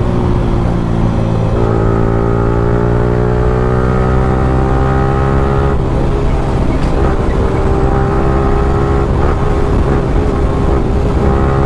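Yamaha R15M's 155 cc single-cylinder engine through a loud free-flow aftermarket exhaust, accelerating under way. Revs climb steadily in each gear, broken three or four times by quickshifter upshifts, each a brief cut and drop in pitch.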